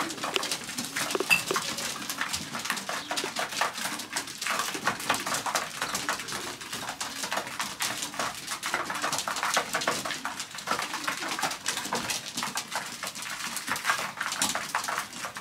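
Widowhood racing pigeons pecking grain from a feeder: a rapid, irregular clatter of beak taps.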